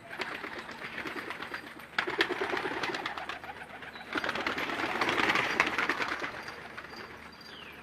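A group of domestic pigeons cooing, with dense crackling clicks through it. The sound comes in three loud stretches, at the start, about two seconds in and about four seconds in, and fades near the end.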